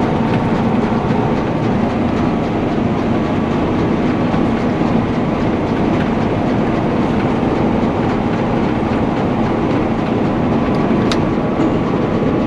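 Combine harvester running with its separator and header engaged, cutting rice: a loud, steady mechanical drone with the clatter of the threshing works.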